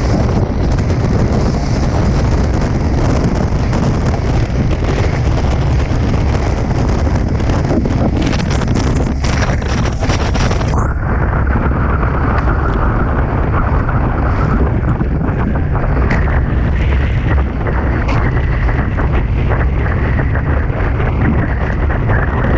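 Strong wind blasting the onboard camera microphone of a Tornado catamaran sailing fast in wind in the high 20s: a constant heavy rumble with hiss over it. About eleven seconds in, the upper hiss cuts off abruptly and the rumble carries on.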